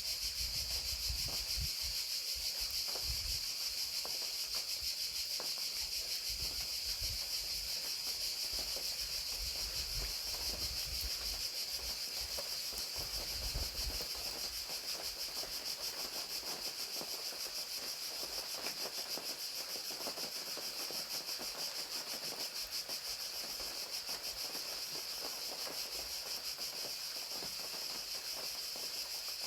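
Crickets chirping in a steady, unbroken chorus over the even hiss of falling rain.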